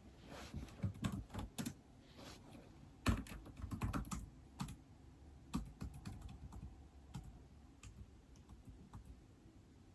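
Keys being typed on a keyboard: irregular runs of keystrokes, busiest in two bursts in the first half, then fewer, scattered taps.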